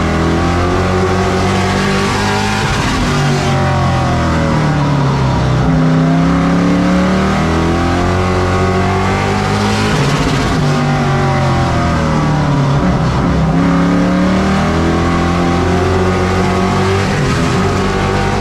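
Race truck engine under racing load, its pitch rising and falling again and again as it accelerates and lifts off.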